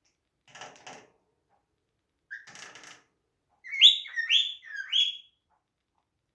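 Cockatiel giving three short rising chirps in quick succession, the loudest sounds here, after two brief scratchy rustling noises.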